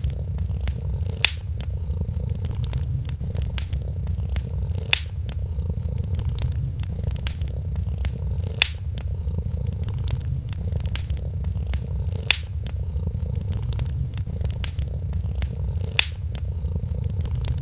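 A cat purring steadily in a low rumble, over the crackle of a wood fire, with a louder pop from the fire about every four seconds.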